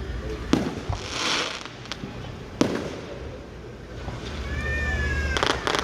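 Fireworks going off: separate sharp bangs about half a second in, near the middle and a quick pair near the end, with a hissing crackle after the first bang and a high, slightly falling whistle before the last pair.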